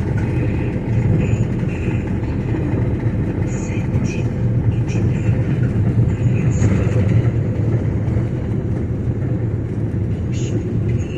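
Steady low rumble of a moving vehicle, road and engine noise with no clear change.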